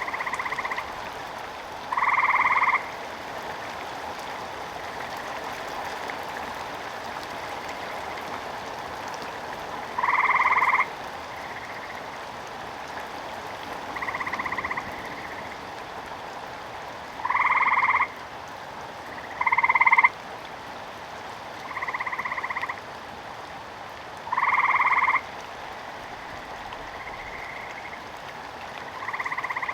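Frog croaking repeatedly: about ten short calls, each under a second, spaced two to four seconds apart, over a steady hiss of rain.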